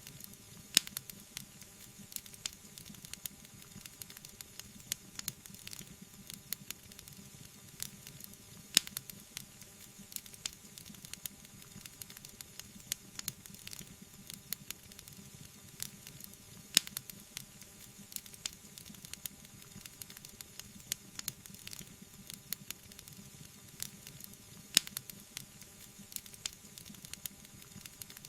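Wood fire burning in a fireplace: a steady soft hissing and bubbling with frequent small crackles, and a sharper, louder pop about every eight seconds.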